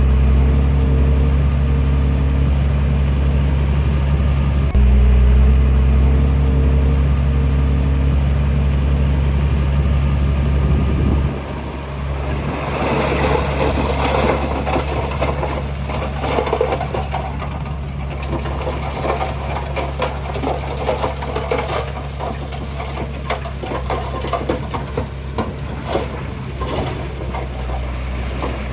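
Heavy equipment diesel engine running steadily and close, a little louder about five seconds in, then dropping in level about eleven seconds in. From about twelve seconds a dense, irregular clatter of knocks and crackles runs over the engine.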